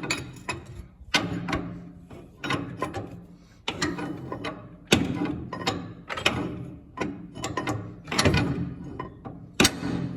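Metal tools clicking and knocking against diesel injection pump parts in irregular sharp strikes, roughly one or two a second, while seized pump components are being worked loose.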